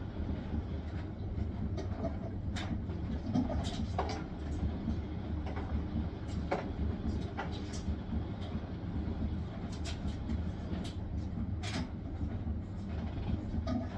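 Hisense washing machine on its spin cycle: a steady low rumble from the spinning drum, with irregular sharp clicks and knocks scattered through it.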